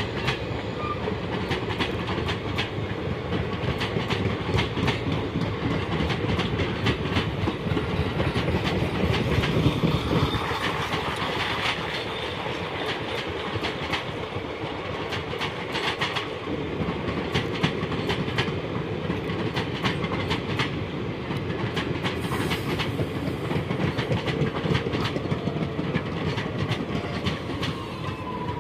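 Indian Railways passenger coaches rolling past, their wheels clicking over rail joints over a steady rumble. Near the end a faint falling squeal comes in as the brakes are applied.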